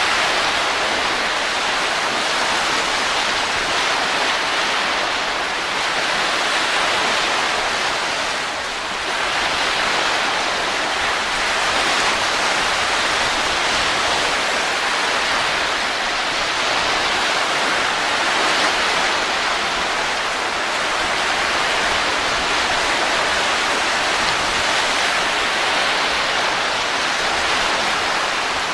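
Steady rushing wind noise that slowly swells and eases, dipping briefly about nine seconds in.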